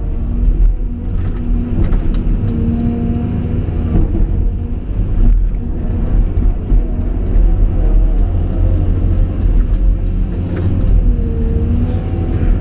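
Caterpillar 349E excavator running with a heavy, steady low rumble, its whine bending up and down in pitch as it works, with a few light clicks and knocks.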